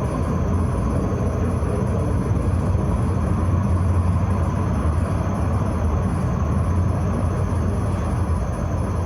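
Tram running along its line: a steady low rumble of wheels and running gear.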